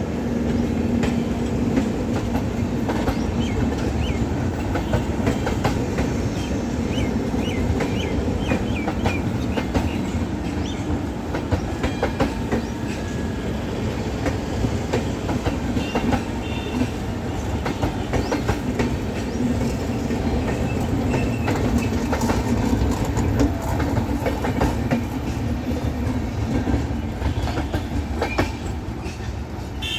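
Passenger express train coaches rolling past on the track, wheels clattering in a steady stream of clicks over the rail joints over a continuous rumble, with a few short high wheel squeals.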